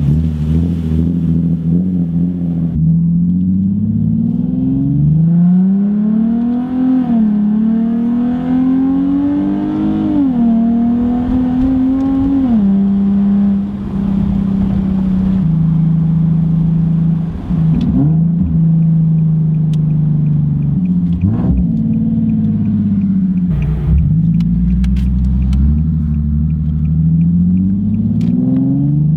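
Nissan 370Z's 3.7-litre V6 through a Z1 Motorsports single-exit race exhaust with test pipes, driven under way. The exhaust note climbs and drops sharply three times as it pulls through the gears, then holds a steady cruise with a few brief dips and a rise again near the end.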